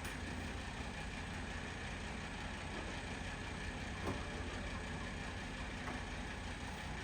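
An engine running steadily with a low rumble, with a single short knock about four seconds in.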